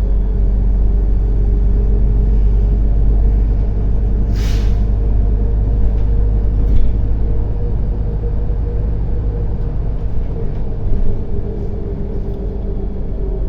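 Inside a MAZ-105 city bus under way: a steady low drone of the engine and drivetrain, with a short hiss of released compressed air about four and a half seconds in.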